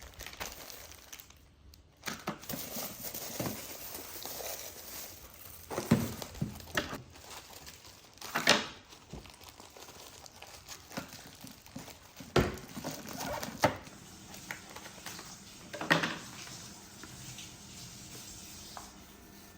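Household handling noises: plastic packaging crinkling, with scattered light knocks and clatters of objects being set down.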